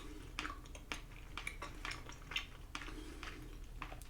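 Quiet eating sounds: a person chewing chewy rice cakes, with scattered soft mouth clicks and light taps of utensils.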